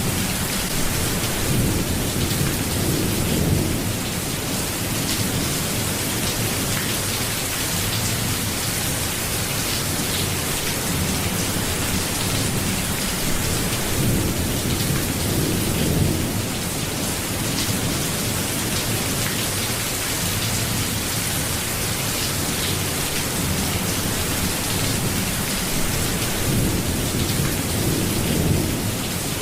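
Steady rain falling, with low rolls of thunder swelling up three times: near the start, about halfway through and near the end.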